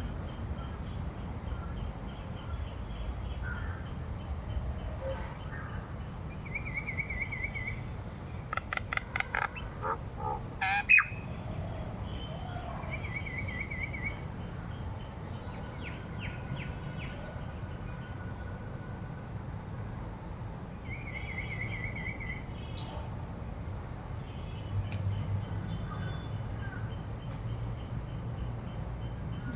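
Birds calling in short trills every several seconds, with a quick run of chirps and one sharp knock about eleven seconds in, over a steady, high-pitched insect drone.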